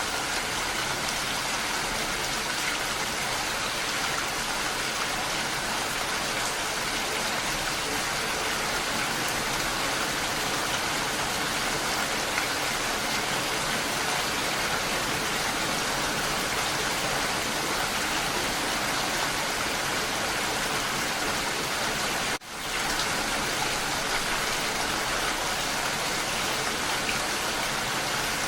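Steady rain falling, an even, dense patter and hiss. About 22 seconds in, the sound dips out for a moment and comes straight back.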